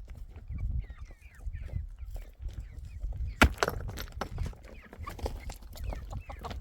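Chickens calling and clucking, many short calls throughout, with several sharp knocks, the loudest about three and a half seconds in.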